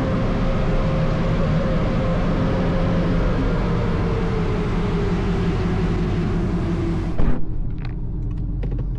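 Automatic car wash dryer blowers rushing air over the car, with a whine that slowly falls in pitch as they wind down. About seven seconds in the rush of air cuts off suddenly, leaving a low rumble and a few light knocks.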